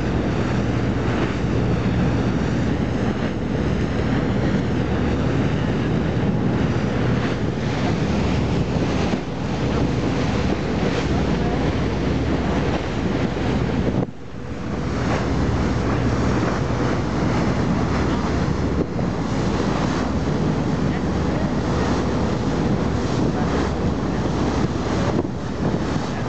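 A boat's engine running steadily under heavy wind noise on the microphone, with sea wash around the hull. The sound drops out briefly about halfway through.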